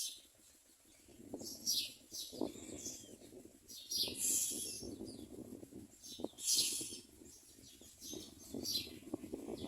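Common myna nestlings giving short raspy, hissing calls about eight times at irregular intervals, over scratching and rustling in the nest.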